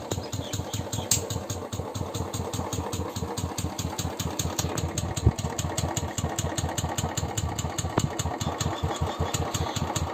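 Royal Enfield BSIV single-cylinder engine idling with a steady, even thumping beat, with occasional sharper ticks cutting through, the loudest about five seconds in. The owner does not know the fault and suspects a loose decompressor.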